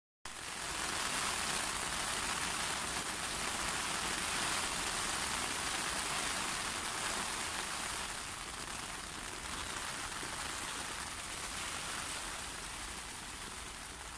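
Steady rain falling on a lake and its grassy bank: an even hiss without distinct drops.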